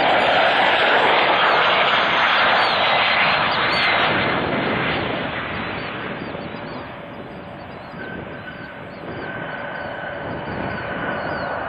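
Jet airliner passing close and loud, its engine roar fading away over several seconds. A quieter steady engine whine is left from about eight seconds in.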